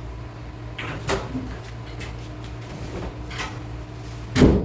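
Glass shower panel or door being worked into its fittings: a few knocks and clicks, then a heavy thud near the end, over a steady low hum.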